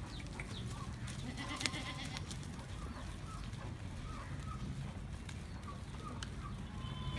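Goats bleating, with short calls scattered through the middle, over a steady low rumble and a sharp click about one and a half seconds in.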